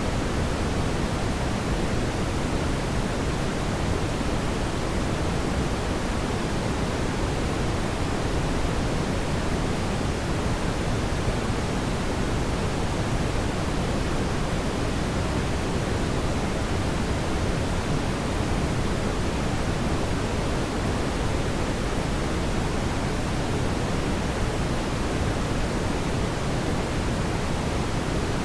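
Steady, even rushing noise, heaviest in the low end, with no distinct crackles or pops.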